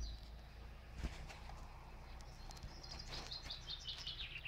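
Faint birds chirping in the background, with a quick run of short high chirps from about three seconds in. A single soft click about a second in.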